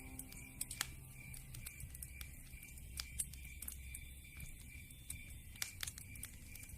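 Wood fire in a fireplace crackling, with irregular sharp pops and snaps over a low, steady hiss.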